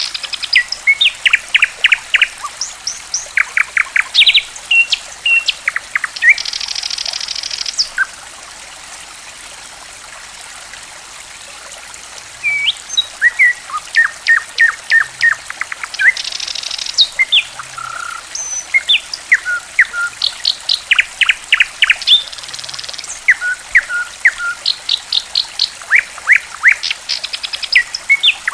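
A songbird sings in quick bursts of sharp chirps and sweeping whistled notes, with a few short buzzy trills, over steady trickling water. The song breaks off for about four seconds near a third of the way in, leaving only the water.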